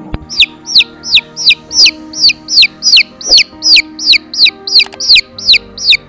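A chick peeping loudly and steadily, about sixteen high peeps that each fall in pitch, nearly three a second.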